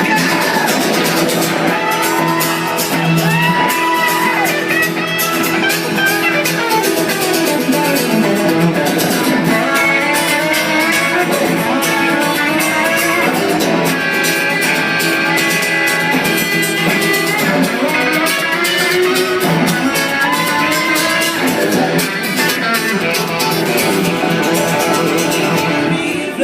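Live rock band playing an instrumental break, led by a guitar whose notes bend up and down over the steady accompaniment.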